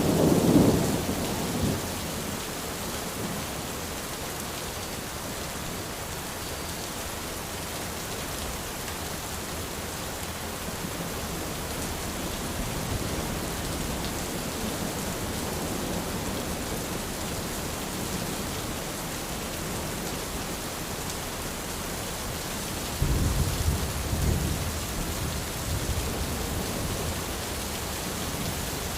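Steady rain falling on an umbrella, with a low roll of thunder dying away in the first couple of seconds and another rumble about 23 seconds in.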